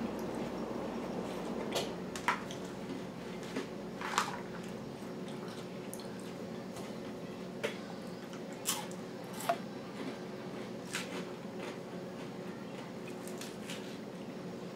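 Close-up chewing and crunching of lettuce and croutons, with about ten short sharp crunches and fork clicks against a plastic salad bowl scattered through.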